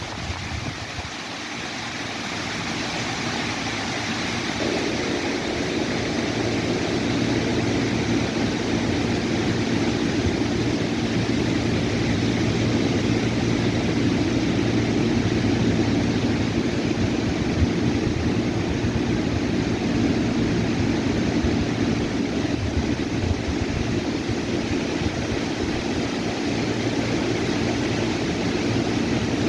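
An engine droning, growing louder over the first several seconds and then holding steady.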